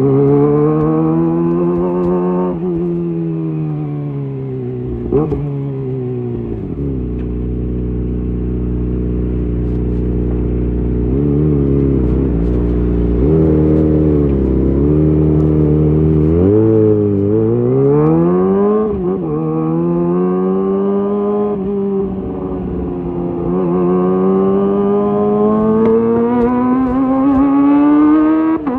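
Kawasaki ZX-25R's 250 cc inline-four engine through a LeoVince GP Evo high-mount exhaust, its pitch rising and falling several times. It holds a steady low note for several seconds in the middle, then climbs again slowly toward the end.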